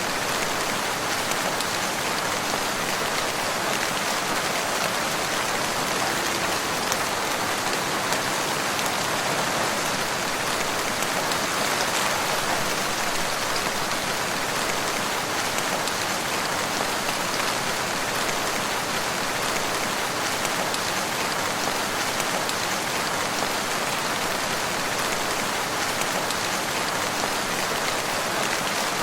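Steady rain falling in woodland, an even hiss of many drops with no change in strength.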